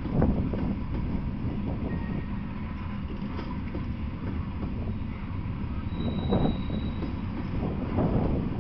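Freight train of Norfolk Southern covered hopper cars rolling past: a steady low rumble of steel wheels on rail with irregular clacks, and a faint high wheel squeal briefly about six seconds in.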